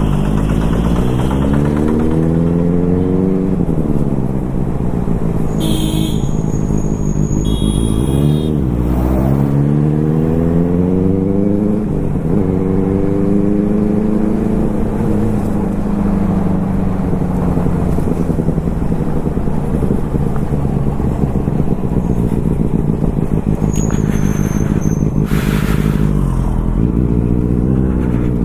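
Benelli motorcycle engine under way, revving up through the gears: its pitch climbs and drops sharply at each shift several times, holds steady for a while, slowly falls off, then climbs again near the end.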